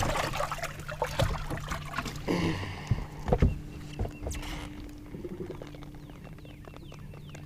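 Knocks and rustling, splashy handling noise aboard a fishing boat over a steady low hum, busiest in the first half and settling down after.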